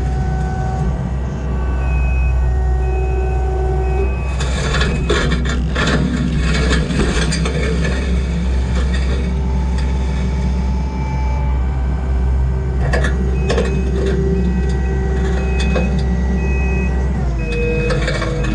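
Kubota SVL90-2 skid steer's diesel engine running steadily under load, with its reversing alarm beeping in pulses twice, and clanks and scraping of the bucket on broken concrete.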